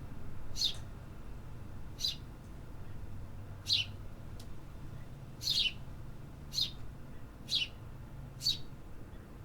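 A bird chirping over and over: seven short, high chirps that each slide down in pitch, about one every second or so, over a low steady background rumble.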